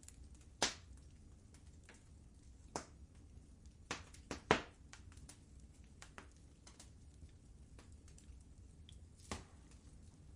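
Wood fire crackling in a fireplace: scattered sharp pops and snaps over a low steady rumble, the loudest pops about half a second in and about four and a half seconds in.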